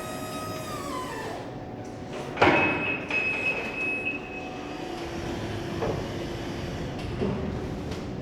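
Electric reach truck working: its motor whine winds down and stops, then a sharp metallic clunk about two and a half seconds in, followed by a high steady squeal for a second or so and later a lower steady hum.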